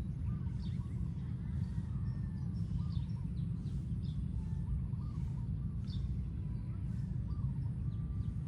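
Birds calling, many short repeated notes, faint over a steady low rumble.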